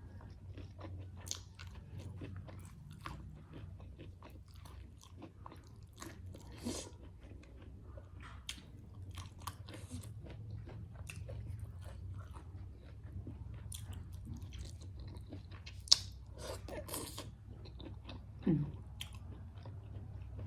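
Close-miked chewing and crunching of food: many short crunches and mouth clicks throughout, with one sharp click about 16 seconds in.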